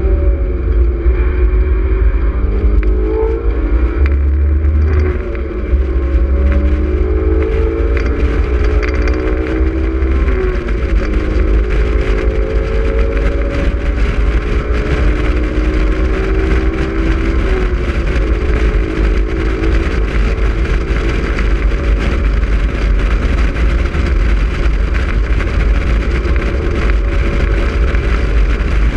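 Honda S2000's four-cylinder engine under hard track driving, heard from inside the open cockpit: its pitch climbs and drops with throttle and gear changes over the first ten seconds, then holds steadier at speed. A heavy low rumble and rushing hiss of wind runs underneath and dominates once the engine note evens out.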